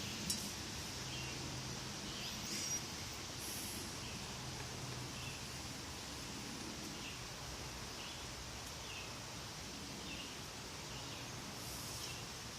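Outdoor ambience: a steady high hiss with faint short bird chirps repeating about once a second, and a sharp click near the start.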